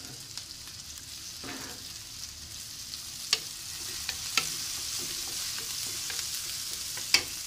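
Chopped tomato, onion and garlic sizzling in hot olive oil in a nonstick pan, stirred with a wooden spatula. There is a steady hiss, with three sharp clicks of the spatula against the pan.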